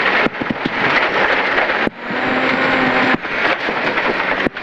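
BMW E36 rally car heard from inside the cabin at stage speed: the engine running hard under a dense noise of tyres, road and stones on the body, with a few sharp knocks near the start. The level drops sharply for a moment about two seconds in and again near the end.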